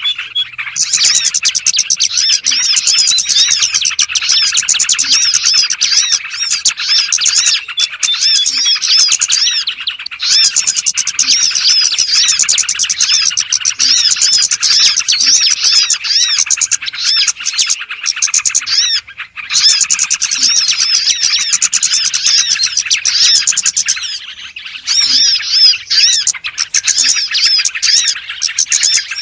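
Dense, unbroken chirping and twittering of small songbirds. It is a lure call meant to draw small birds in, and it dips briefly twice.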